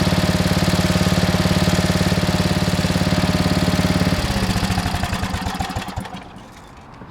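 Briggs & Stratton 8 hp Industrial Plus single-cylinder engine on a Troy-Bilt Horse tiller running steadily. About four seconds in it is shut off: the firing slows and fades out over about two seconds.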